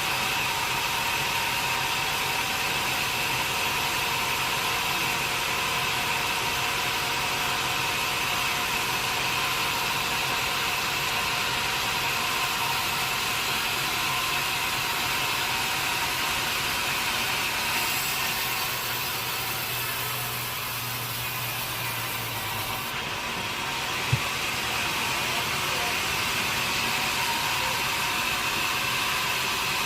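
Sawmill machinery running steadily, a continuous mechanical hum with a high whine over it. It eases a little about two-thirds of the way through, and a single sharp click comes shortly after.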